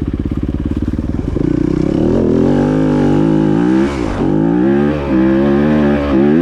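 Dirt bike engine pulling up a steep, slippery hill at full throttle in third gear. It thumps at low revs at first, then revs high, the pitch rising and dropping briefly twice as the throttle is chopped and opened again.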